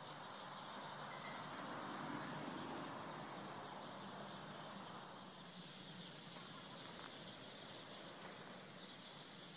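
Faint massed chatter of a large flock of birds gathering to roost, taken for starlings. It swells about two seconds in and eases off after about five seconds.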